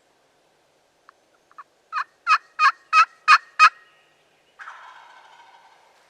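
Wild turkey calling: six loud, evenly spaced yelps, about three a second. About a second later comes a longer, fading rattle, a turkey gobbling.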